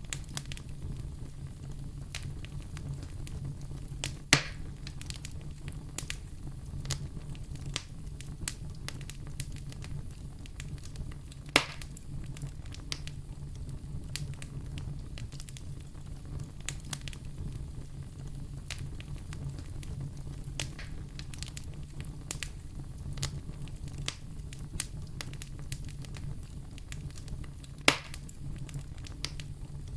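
A fire crackling in a fireplace: a steady low rumble with constant small snaps. Three much louder pops come about 4 s, 12 s and 28 s in.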